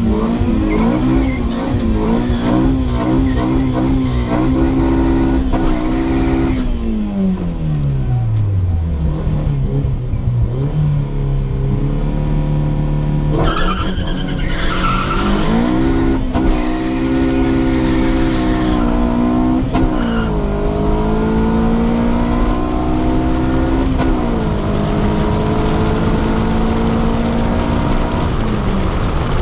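Mk1 VW Golf engine heard from inside the car on a quarter-mile drag run. The revs are held high, then fall away to idle. About halfway through it launches with a brief tyre squeal and climbs through the gears with three quick shifts, then lifts off near the end.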